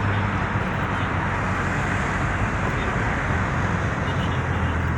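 Steady road traffic noise: an even rush of passing cars with a low engine hum underneath.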